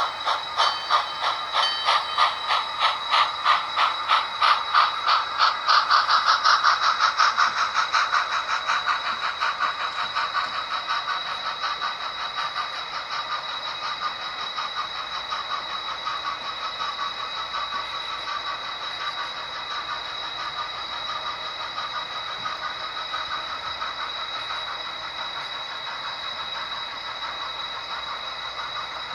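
Model train wheels clicking over the rail joints as the train passes: about two clicks a second at first, quickening and growing loudest several seconds in, then fading into a softer, faster clatter as it moves away. A steady high-pitched whine runs underneath.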